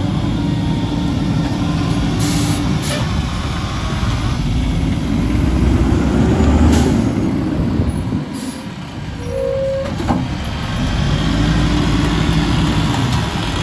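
Mack LE garbage truck's diesel engine running under load, its pitch rising and falling twice as it drives the Heil packer crushing trash, with several short sharp hisses of air early on.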